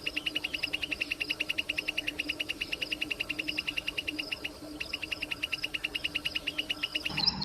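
A prinia (ciblek) singing a fast, even trill of short buzzy notes, about ten a second, with a brief break a little past halfway. Right at the end, different and louder bird chirps take over.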